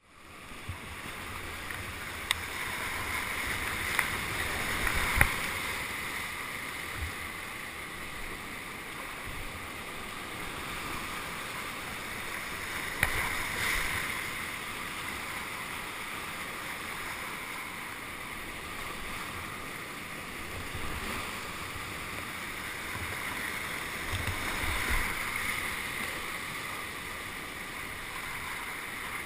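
Whitewater river rushing steadily, fading in at the start, with a few sharp knocks and low thumps over it.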